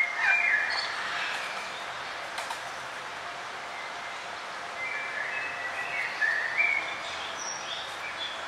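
Forest birds chirping and calling, with short gliding chirps in a cluster near the start and another a little past the middle, over a steady background hiss.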